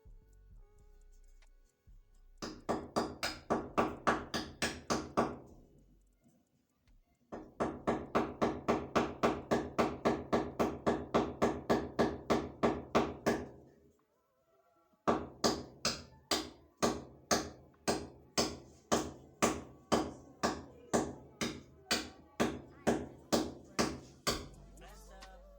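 Hammer striking repeatedly at about three blows a second, each blow ringing, in three runs broken by short pauses.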